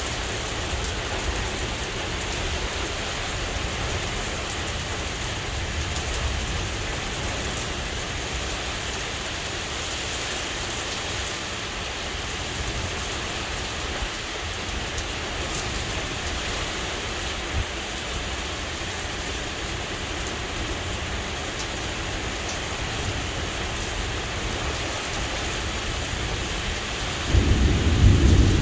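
Rain falling steadily in a thunderstorm, with a loud low rumble of thunder starting near the end.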